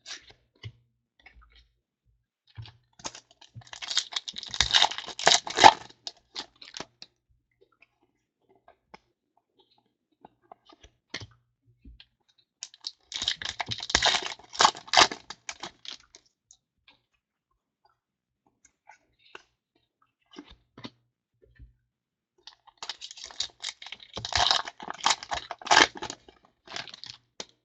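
Foil wrappers of trading card packs crinkling and tearing as packs are opened, and the cards are handled. The noise comes in three bursts of a few seconds each, with faint clicks between.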